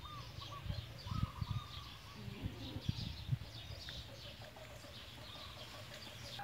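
Birds calling in the background: scattered high chirps and a short call of a few quick notes repeated now and then. A few low thumps come between about one and three and a half seconds in.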